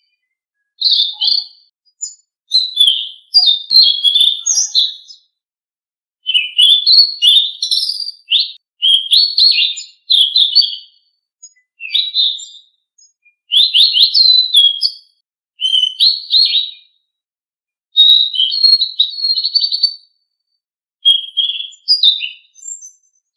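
Selendang biru songbird singing a recorded song: phrases of rapid, varied chirps and whistles, each a second or two long, separated by short pauses.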